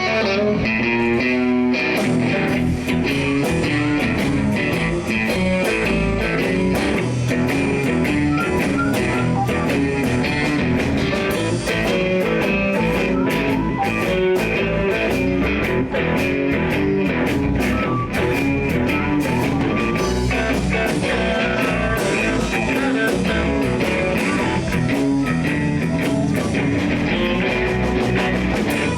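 Live blues-rock band playing a song in the key of E, with electric guitar leading in and the drums and bass coming in about two seconds in.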